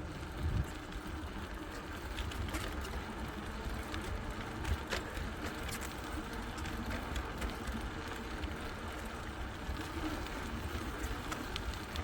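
Low wind rumble on a phone microphone and tyre-on-road noise from a moving bicycle, with scattered small clicks and rattles.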